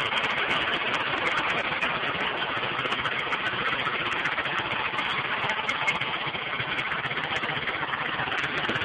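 Minibike's small gas engine running steadily, freshly started.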